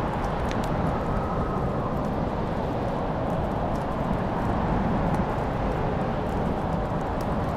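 Wood fire crackling in a fireplace: a steady low rumble of burning with scattered small sharp pops and ticks.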